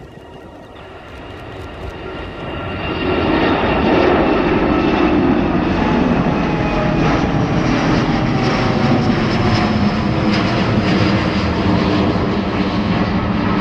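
Passenger airliner's engines passing close by. The sound grows louder over the first three or four seconds, then stays loud and steady, with whining tones that slide slowly lower.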